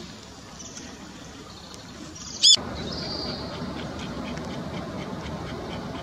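Brown-eared bulbul: one short, loud, high-pitched call about halfway through, followed by faint short chirps over steady outdoor background noise.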